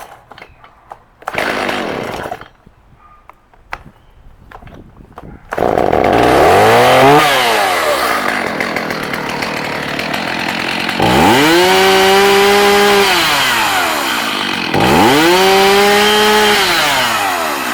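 Stihl MS 290 chainsaw's two-stroke engine catching about five seconds in after a couple of short handling noises, revving up and settling to idle. It is then revved twice more to full throttle, each time held for about two seconds before falling back to idle.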